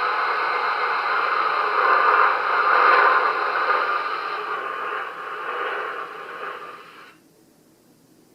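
Diesel engine sound effect from the Märklin VT 11.5 model's onboard sound decoder, played through its small loudspeakers with a hissy tone. It runs loud, fades in steps and cuts off about seven seconds in.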